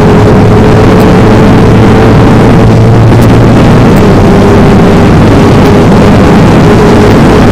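Motorcycle engine running through a DX Generation Sphere Oval aftermarket exhaust, very loud and close, holding a steady engine speed; the low part of the note drops back a little about three seconds in.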